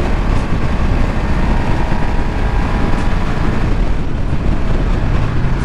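Ducati Streetfighter V2 motorcycle under way: the steady sound of its engine and the wind rushing over the microphone while riding.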